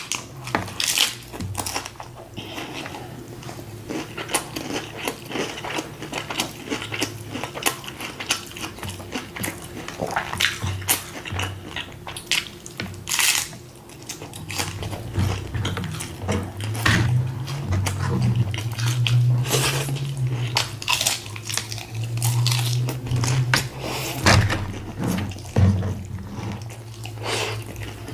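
Chewing and crunching of a taco, with many short clicks and clinks of dishes and cutlery, over background music.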